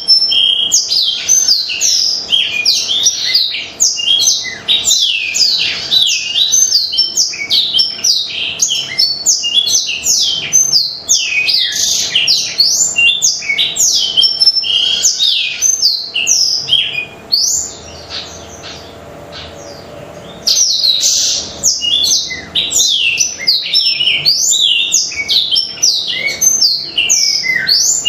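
Blackthroat (black-throated canary) singing a fast, continuous song of high chirps and trills. It breaks off for about three seconds about two-thirds through, then resumes.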